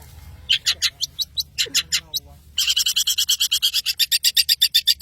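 Long-tailed shrike singing: a few separate sharp high notes, then from about halfway in a fast, harsh rattle of about eight notes a second.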